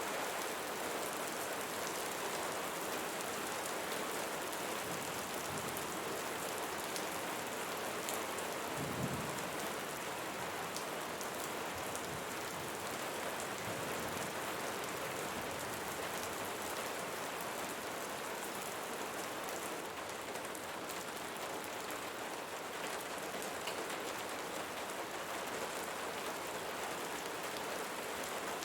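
Steady rainfall, an even hiss of rain with scattered drops, and a brief low rumble about a third of the way in.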